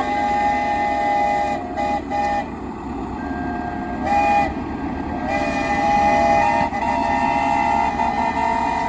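Steam traction engine whistles blowing in several blasts, long and short, with two or more whistles at different pitches sounding together, over a steady rushing noise.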